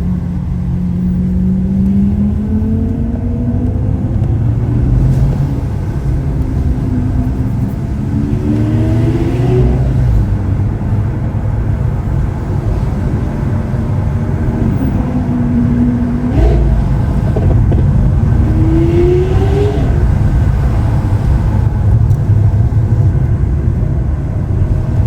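Lamborghini Aventador SV Roadster's naturally aspirated V12 running under way. Its note rises several times as it accelerates, around a third of the way in, just past halfway and again a little later, over a steady low rumble.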